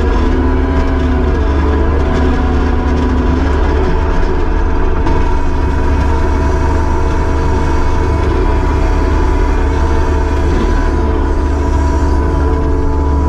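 Kubota SVL75-2 track loader's diesel engine running steadily at working speed, its pitch wavering slightly in the first few seconds.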